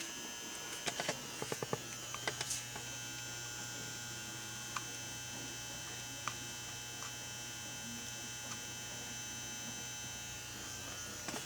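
Steady electrical hum with a faint high whine, with a few light clicks and knocks in the first two or three seconds.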